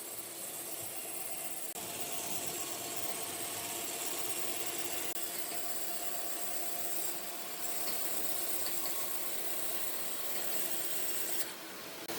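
A woodworking power tool or shop machine running with a steady hum and hiss. The sound changes abruptly a few times.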